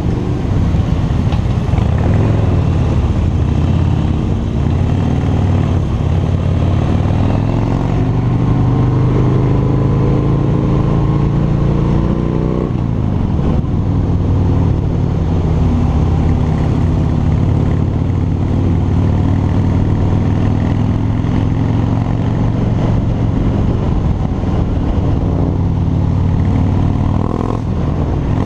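Harley-Davidson V-twin motorcycle engine under way: its pitch climbs steadily under acceleration, drops sharply at an upshift about thirteen seconds in, then runs fairly steady.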